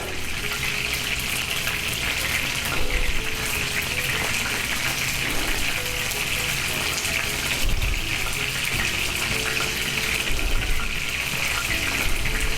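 Steady sizzle of chicken bites frying in grease in an electric frying pan.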